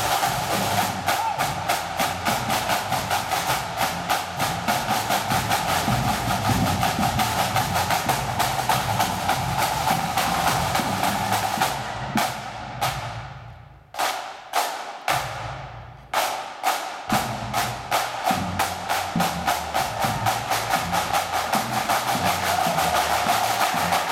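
Pipe band drum corps playing: fast snare drum rolls and strokes over bass drum. About twelve seconds in the playing thins to a few single ringing hits for several seconds, then the full drumming picks up again.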